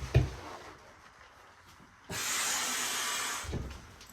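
A low knock near the start, then a loud hiss that starts abruptly about two seconds in and stops after about a second and a half.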